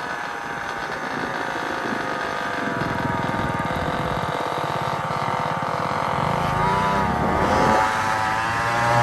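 Small gasoline engine running steadily and growing louder, then revved up and down a few times about two-thirds of the way in.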